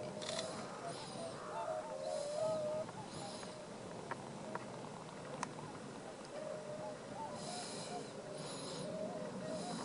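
Wild birds calling repeatedly: wavering, chattering calls in a middle pitch, with short high, scratchy calls every second or two and a few sharp clicks near the middle.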